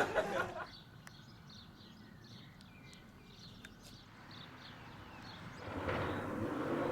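Faint bird chirps in a quiet lull, then a car's engine and noise build up from about four seconds in, getting steadily louder, with a low drone slowly rising in pitch near the end.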